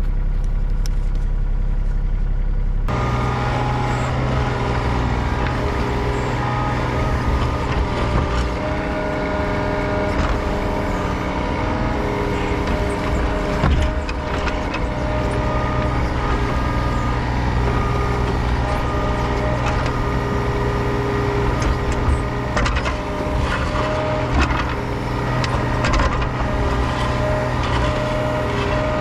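Diesel engine of a piece of equipment running steadily under work, with a steady whine over it and occasional knocks. The sound changes abruptly about three seconds in.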